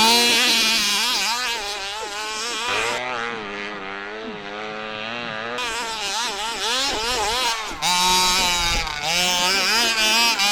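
29cc two-stroke engine of a 1/5-scale HPI Baja 5B RC buggy revving hard under throttle, its pitch wavering up and down as the throttle is worked. It eases off and runs softer for a few seconds in the middle, then opens up loud again about eight seconds in.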